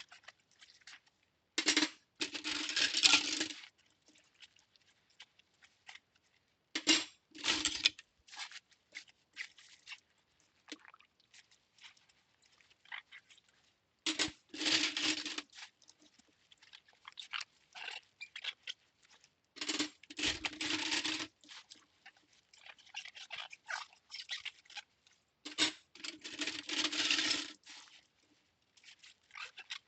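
Cutlery being washed by hand in a sink: faint scrapes and small metal clinks, broken about every six seconds by a louder rushing burst lasting a second or two.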